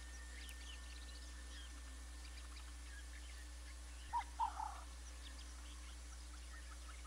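A bird call of three short notes about four seconds in, the loudest thing here, over faint scattered chirps of small birds and a steady low hum.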